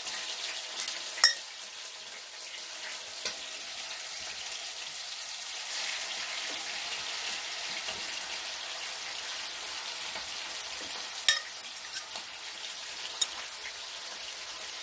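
Chicken fillets frying in hot oil, a steady sizzle, with a few sharp clicks of a fork against a ceramic dish.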